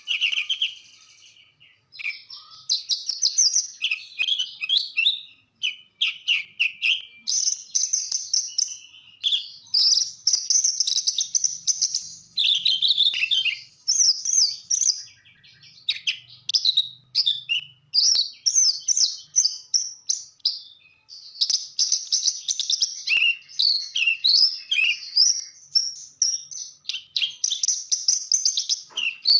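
Australasian bush lark (branjangan) singing a long, varied song of rapid chirps and trills, in phrases of a second or two broken by short pauses.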